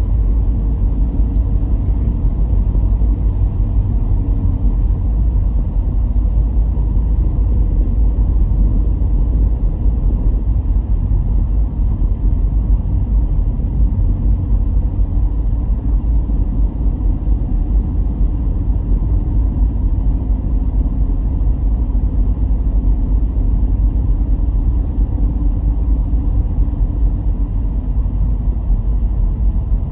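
Car driving along at a steady pace: a constant low rumble of engine and tyres on the road.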